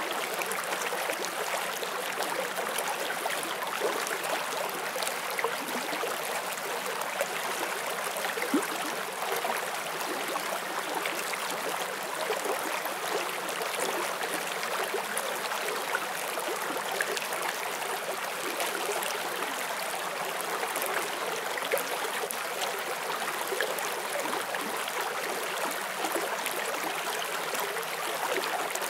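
Forest stream flowing over rocks: a steady rushing of water with small splashes and gurgles.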